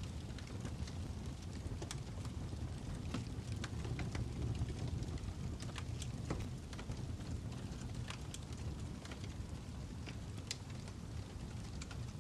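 Fire crackling: a steady low rumble with frequent irregular sharp pops and snaps.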